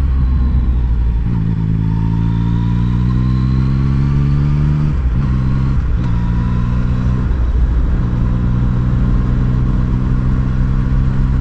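Yamaha MT-09's three-cylinder engine under way, its pitch rising slowly for a few seconds, breaking off about five seconds in, then running steadily. A constant low rumble of wind on the microphone sits underneath.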